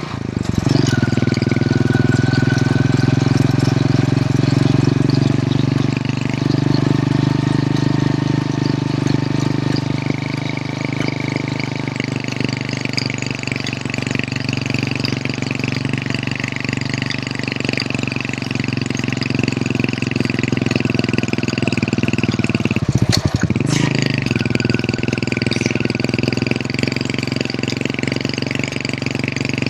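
Hero Honda CD100's small single-cylinder four-stroke engine running steadily under way, with a brief break in the sound about three-quarters of the way through.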